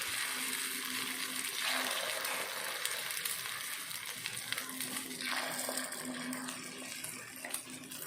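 Beaten egg batter sizzling in hot oil as it is ladled into the cups of a kuzhi paniyaram pan. A fresh burst of sizzle comes with each pour, about two seconds in and again about five seconds in, then settles between pours.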